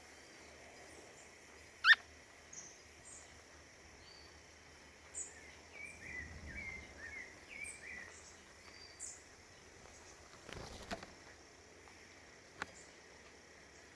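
Small forest songbirds calling: scattered short high chips, one loud rising note about two seconds in, and a run of quick twittering notes in the middle. A brief noisy rustle comes near the end.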